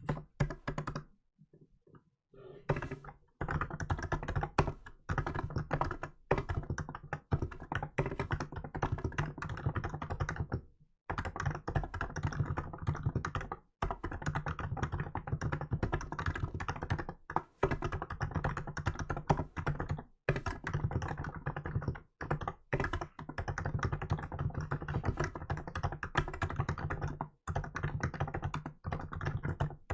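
Fast, steady typing on a Hansung GK868B electrostatic capacitive (non-contact) keyboard with milk keycaps. A few scattered keystrokes come first, then a dense run of key strikes from a few seconds in, broken by short pauses.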